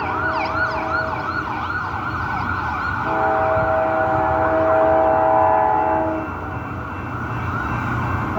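A siren yelping in fast rising-and-falling sweeps, fading after about two seconds, then a freight locomotive's multi-note air horn sounding one long blast from about three to six seconds in, over the low rumble of the train.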